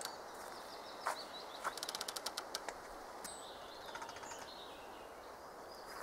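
Small birds chirping in the forest, with short high calls, and a quick run of about ten sharp clicks about two seconds in.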